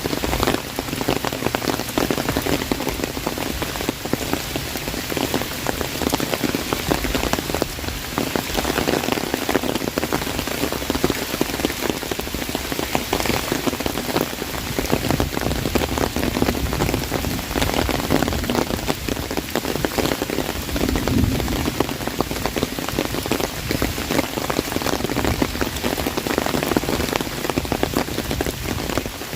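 Heavy rain falling on an umbrella: a dense, steady patter of drops hitting the canopy.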